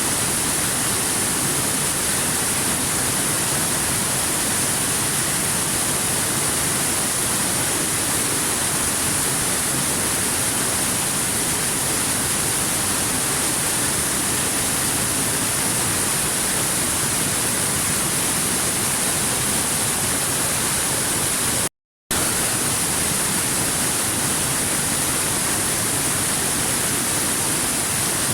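Waterfall's falling water rushing in an even, steady hiss, with one brief cut to silence about three-quarters of the way through.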